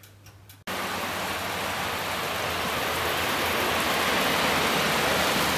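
Steady rain falling, an even hiss that cuts in suddenly less than a second in after a brief quiet moment.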